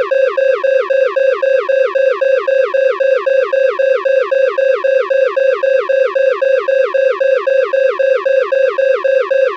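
Electronic alarm sounding loudly: a steady high tone broken into rapid repeating pulses, each with a quick downward chirp, about four to five a second.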